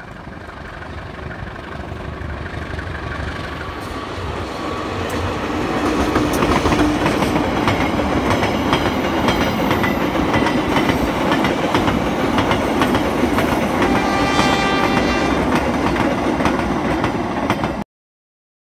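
Diesel-hauled ballast train passing: the locomotive approaches and grows louder over the first several seconds, then the ballast hopper wagons roll by with a steady rumble and clickety-clack of wheels over the rails. A brief high tone with several pitches sounds about 14 seconds in, and everything cuts off suddenly near the end.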